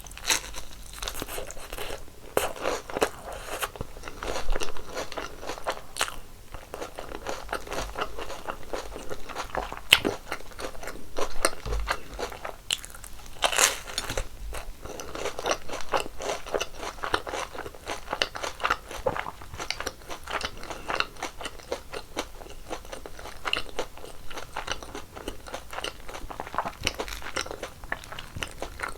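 Crispy fried kkwabaegi (Korean twisted doughnuts) being bitten and chewed close to the microphone: a continuous crackly crunching, with a few louder bites spread through.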